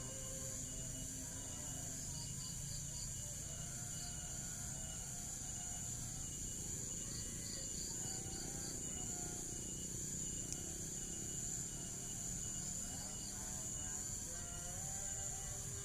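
Steady high-pitched insect drone, like crickets, with faint music underneath.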